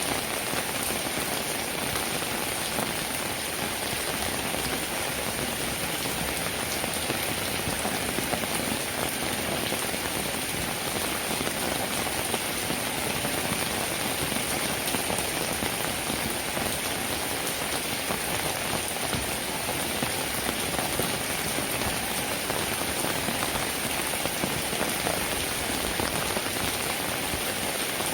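Steady rainfall, a dense, even patter of many drops with no change in strength.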